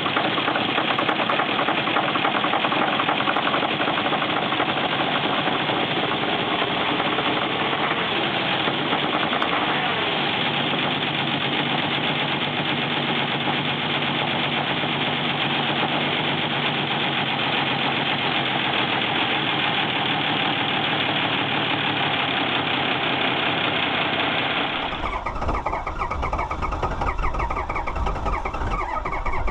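Diesel engine running after a cold start, with a fast, even run of knocks. About 25 seconds in it cuts suddenly to a different, deeper engine rumble.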